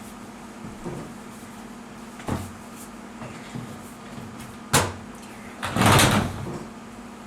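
Hard plastic shelf parts knocking and clacking as they are handled: a few sharp knocks, then a louder half-second scrape or rustle about six seconds in, over a steady low hum.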